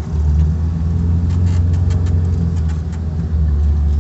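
LuAZ off-roader with a VAZ-21083 four-cylinder petrol engine running with a steady low rumble. About a third of the way in come a scatter of short clicks and knocks.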